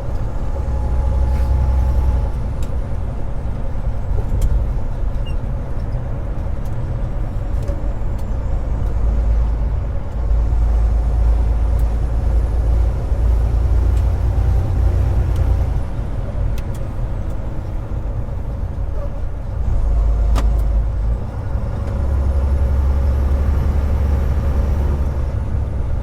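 Semi truck's engine and road noise heard inside the cab while driving at highway speed: a steady low drone that swells and eases several times.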